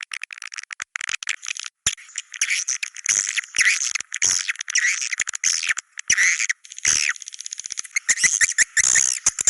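Swiftlets calling in a dense chorus: many overlapping high chirps, twitters and fast clicking trills, with a couple of short breaks.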